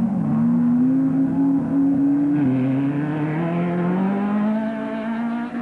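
Off-road race car engine pulling hard under acceleration: the revs hold, drop with a gear change about two seconds in, then climb steadily again.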